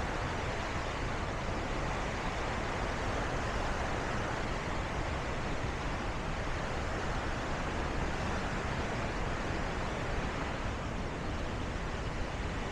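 Steady rushing of the Bow River's fast water at Bow Falls, an even unbroken noise.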